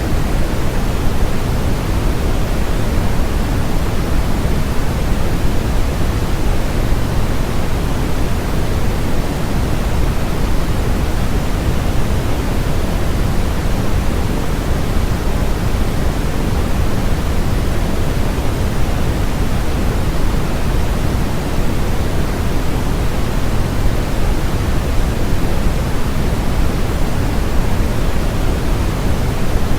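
Steady electronically generated noise, an even, unchanging hiss with more weight in the low end than the highs.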